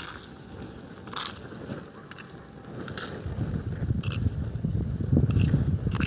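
Wood bonfire crackling, with sharp pops every second or so, over a low rumble of wind on the microphone that grows stronger about halfway through.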